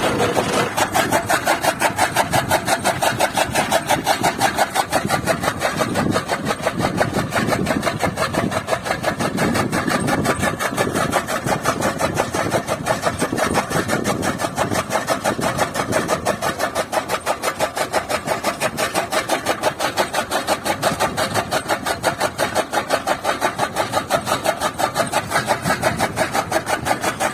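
Tractor-driven chaff cutter (toka machine) chopping fodder, with the Massey Ferguson 240 tractor's diesel engine running under load. It keeps a fast, even, rhythmic pulse throughout.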